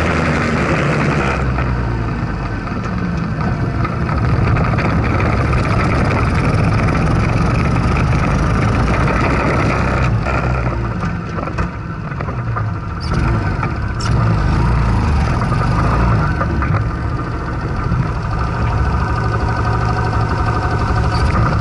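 Chinese-made single-cylinder engine of a Monkey/Gorilla-style minibike running through a Bike Parts Center aftermarket muffler while riding, its note rising and falling with the throttle, with a short easing-off about halfway through.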